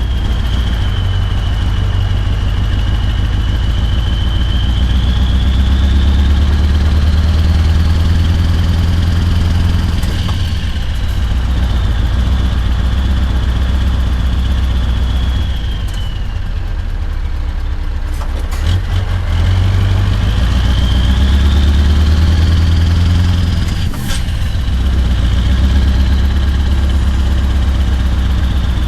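Scania R580 16-litre V8 diesel with straight-piped 8-inch exhaust running under load, a deep, steady exhaust note. A high whine over it climbs and falls away twice, with a few short clicks between.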